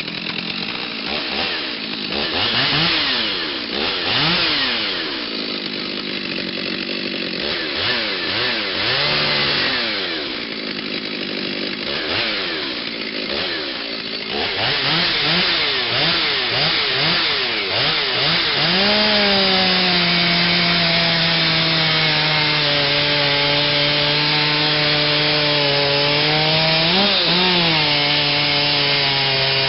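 Muffler-modified Stihl 039 two-stroke chainsaw on a 28-inch bar revving up and down repeatedly, then from about 19 s in running at a steady, lower pitch under load as the chain cuts into the oak trunk, with one brief rise and drop near the end.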